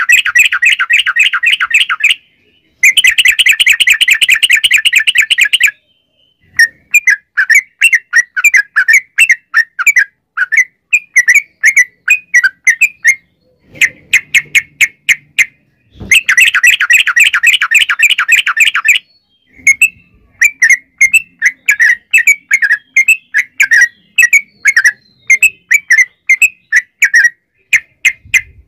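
Yellow-vented bulbul (trucukan) singing a long, fast run of chattering notes, the prolonged 'ropel' song. Three dense rapid runs alternate with looser strings of separate bubbly chirps.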